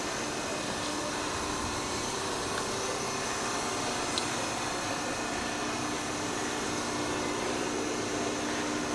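Steady hum and hiss of a running machine, unchanging throughout, with one faint click about four seconds in.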